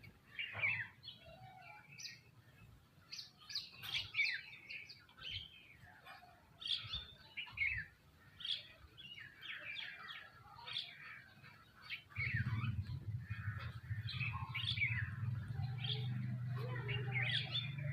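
A flock of small birds, house sparrows and mynas among them, chirping and calling over one another in quick short notes. About two-thirds of the way through, a steady low hum comes in beneath the birdsong.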